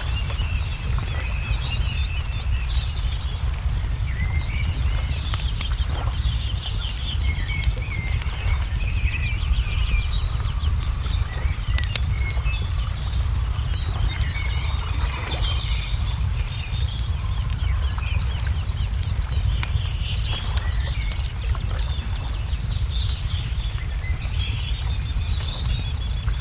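Layered nature ambience: small songbirds chirping and twittering throughout, with scattered sharp pops and clicks of a crackling wood fire, over a steady low rumble.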